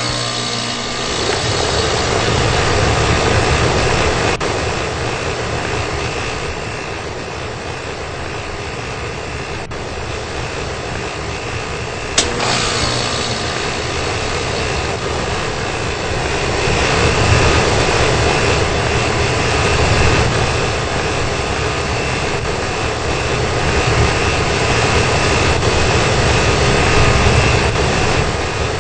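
Old wall-mounted HVAC unit running: a steady rush of air with a low hum, and a single sharp click about twelve seconds in.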